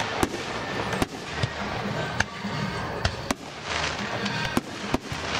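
Aerial fireworks going off: a string of sharp, separate bangs, about seven of them, irregularly spaced, over background music.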